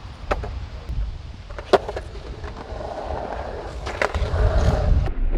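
Skateboard rolling on pool concrete: the wheels rumble, louder toward the end, with a few sharp clacks of the board, the loudest a little under two seconds in.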